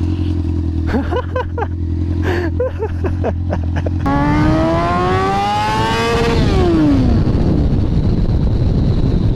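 Honda CBR600 F4i sport bike's inline-four running low and steady, then accelerating hard: the engine note climbs for about two seconds to high revs, drops, and is buried under loud wind rush.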